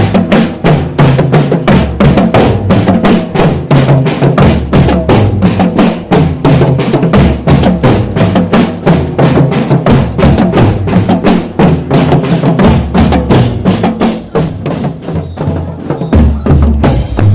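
Marching drum band playing: bass drums and snare drums keep a steady beat of about four strikes a second.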